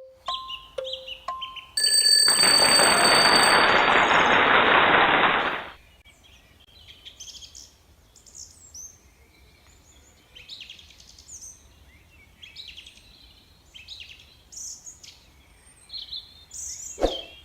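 Short repeated beeping tones, then a loud hiss-like rush of noise lasting about four seconds that stops abruptly. After it come faint bird chirps, scattered over the rest of the stretch, and a sharp click near the end.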